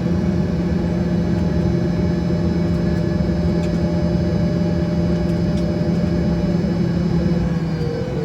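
Embraer ERJ-145's rear-mounted Rolls-Royce AE 3007 turbofans running at low power, heard from inside the cabin as a steady hum with high whines. About seven seconds in, one whine begins to fall slowly in pitch, as an engine spools down.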